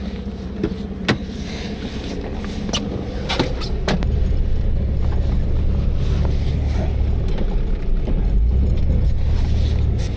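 Blazer's engine running as the truck backs up, getting louder about four seconds in as throttle comes on. A few sharp clicks and knocks sound in the first few seconds.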